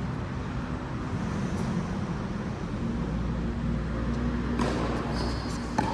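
Steady low rumble of background noise, with a few faint high squeaks and a sharp click near the end.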